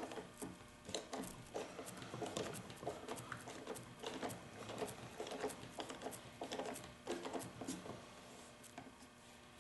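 Faint, irregular clicks and taps of small parts and tools being handled while a backpack leaf blower is taken apart, several a second, growing sparse near the end.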